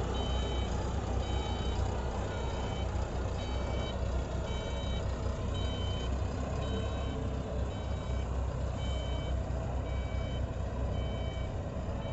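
Self-loading concrete mixer truck's diesel engine running steadily under a reversing alarm that beeps evenly, about one and a half times a second.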